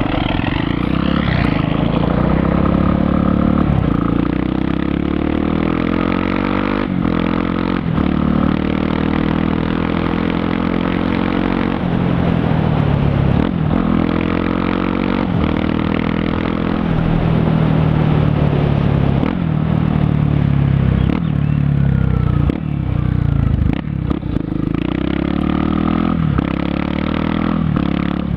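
Yamaha XTZ 250 Lander's single-cylinder engine through a loud DORE aftermarket exhaust while riding. It revs up and drops back again and again, with short dips in between that fit gear changes.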